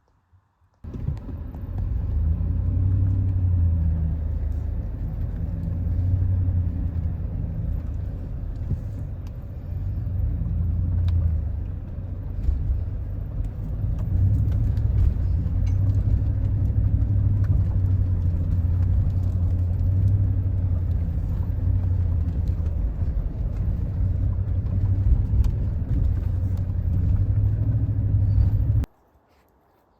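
Steady low rumble of a motor vehicle running, starting abruptly about a second in and cutting off suddenly near the end.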